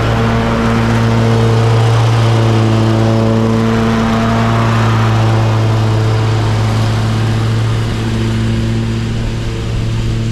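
Commercial lawn mower engine running steadily at full throttle, with its deck cutting and mulching leaves; the engine note holds one steady pitch throughout.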